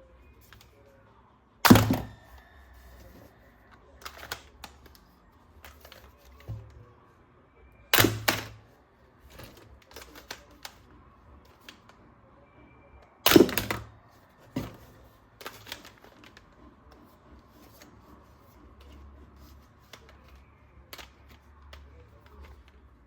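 Hard plastic toy gun parts being handled and clicked together: three loud sharp clacks about six seconds apart, the middle one doubled, with lighter clicks and rattles between.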